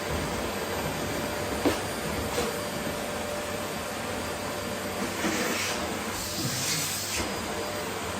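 Vacuum cleaner running steadily while sucking up rose petals. A sharp click comes about one and a half seconds in, and brief louder hissing rushes come between about five and seven seconds in.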